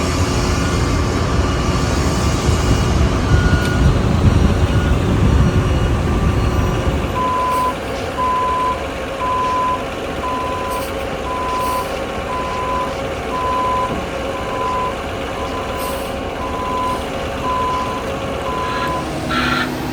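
Concrete mixer truck backing up: its diesel engine rumbles heavily for the first several seconds, then drops away. From then on the truck's reversing alarm beeps steadily, about once a second.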